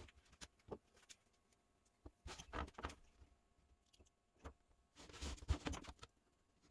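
Workshop handling noises: scattered light clicks and knocks, with two short scraping or rustling bursts about two and five seconds in, the second one the loudest.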